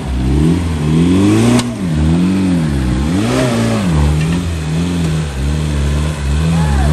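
Off-road 4x4's engine revving up and dropping back again and again, its pitch rising and falling several times, with a sharp knock about one and a half seconds in.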